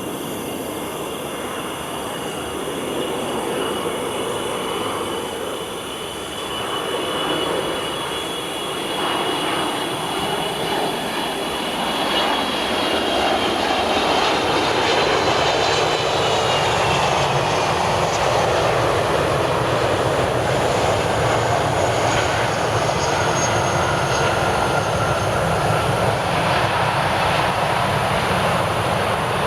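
Airbus A330-300 airliner with Pratt & Whitney PW4000 engines coming in to land, its engines whining over a steady rumble. The sound grows louder, and about halfway through the high whine falls in pitch as the jet passes.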